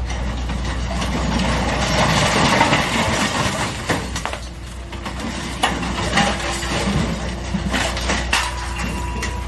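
A steady low engine hum, with a swell of noise around two seconds in and scattered clicks and knocks.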